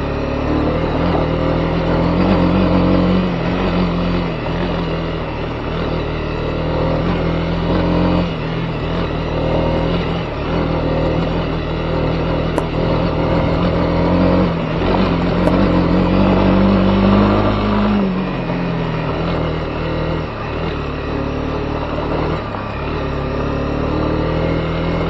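Honda CB250R's single-cylinder engine running under way, its pitch rising and falling with the throttle, with several brief dips and a drop in revs about eighteen seconds in.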